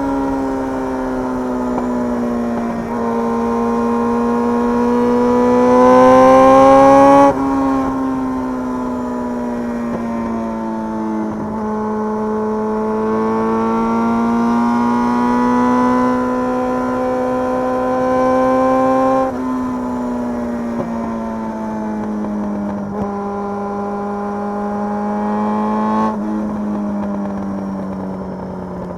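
Motorcycle engine running on the road, its pitch climbing under throttle and dropping sharply several times, as at gear changes or when the throttle is rolled off. It is loudest about six to seven seconds in and winds down in pitch near the end.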